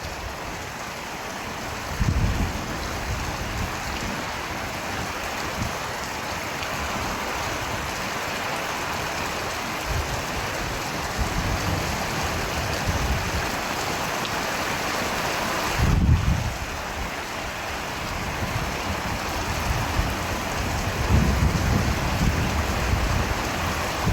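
Steady rain falling, with brief low rumbles about two seconds in, around sixteen seconds, and again near the end.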